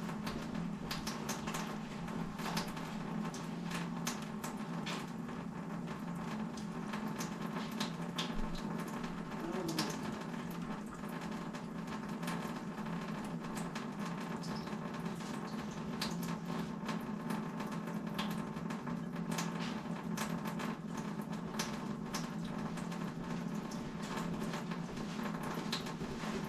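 A steady low hum with irregular light clicks and knocks throughout, the sound of hands-on work with parts and tools.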